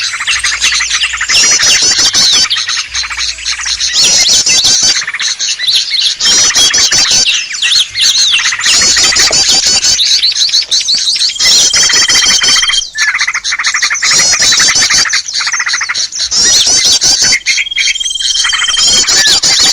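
A dense, noisy chorus of many small songbirds calling over one another: fast, repeated chirps and chatter with no gaps, used as a bird-trapping lure call. Twice, in the second half, a single held whistle stands out above the chatter.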